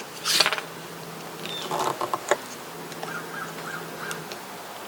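A hand chisel scraping out hardwood in two short bursts of strokes, about half a second and two seconds in, over a steady low buzz.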